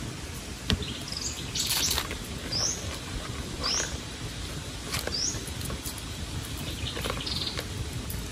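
A bird calling in three short rising chirps, a second or so apart. Under them are scattered clicks, a brief rustle and a steady low background hiss.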